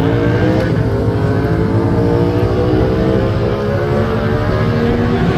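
Motorcycle engine running, its pitch sinking slowly and evenly.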